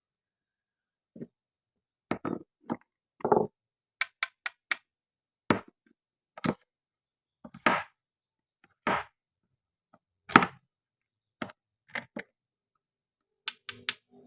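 Wooden and plastic toy fruit and vegetables being cut and handled: a dozen or so short, irregularly spaced knocks and clicks, with silence between.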